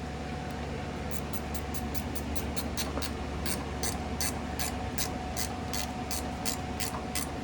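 Hand ratchet wrench clicking as a bolt is run in on the engine, quick regular clicks at first, then a steadier run of about four clicks a second. A low steady hum lies underneath.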